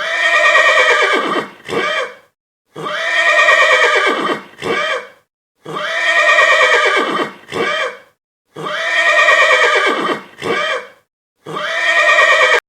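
Horse whinnying: the same long, quavering whinny, each followed by a short second call, repeated four times at even spacing about every three seconds.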